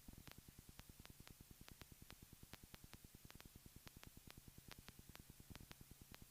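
Near silence: faint rapid, even ticking, several ticks a second, over a low steady hum.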